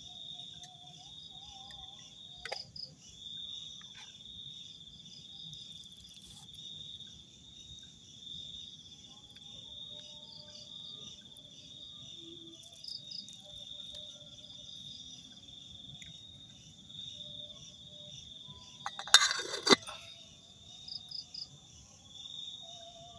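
Evening insect chorus, crickets trilling steadily at a high pitch with faster chirps above, in a bamboo forest. A brief loud knock breaks in near the end.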